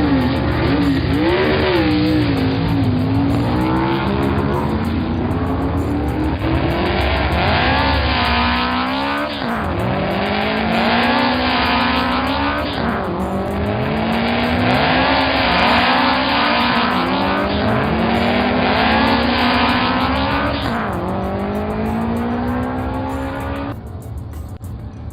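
Cartoon sound-effect vehicle engine revving up and down again and again, its pitch rising and falling every second or two. It drops quieter shortly before the end.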